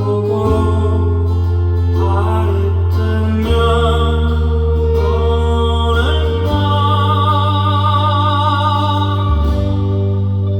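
A band playing: sustained chords over a steady bass, with a long held melody line that moves to new notes every few seconds.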